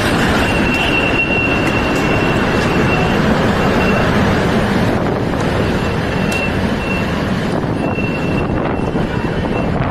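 Strong storm wind blowing hard over the microphone, with a thin high whistle that comes and goes.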